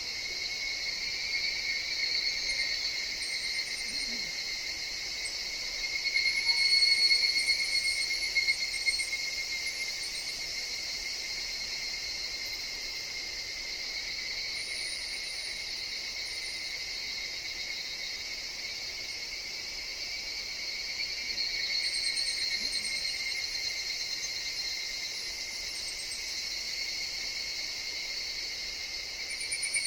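A chorus of higurashi (evening cicadas, Tanna japonensis) singing in a forest: a steady high-pitched shrill that swells louder several times, most strongly a few seconds in as a nearer cicada calls.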